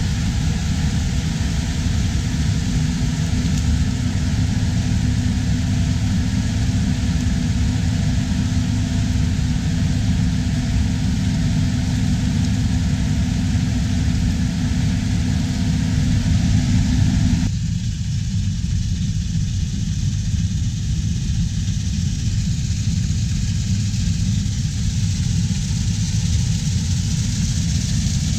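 Farm harvest machinery's diesel engine running steadily, with a deep low rumble and a hum above it. About two-thirds of the way through, the sound changes abruptly as the higher noise drops away and the low engine rumble carries on.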